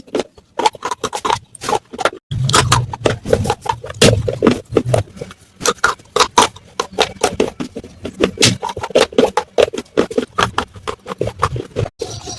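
Pieces of baked clay matka (earthen pot) being crunched: a rapid, irregular stream of crisp cracks and crackles, with a brief break about two seconds in.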